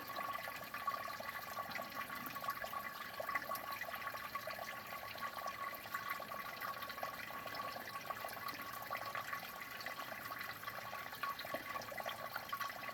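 Shallow spring water trickling steadily over and around a bed of watercress, a continuous babble of many small splashes.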